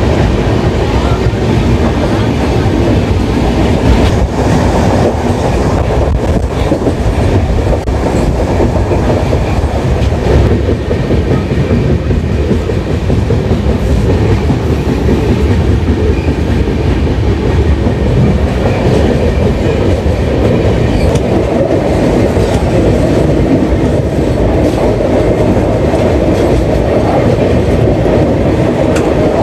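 Gondwana Express passenger train running, heard from on board: a loud, steady rumble of the wheels on the rails with clickety-clack over the rail joints.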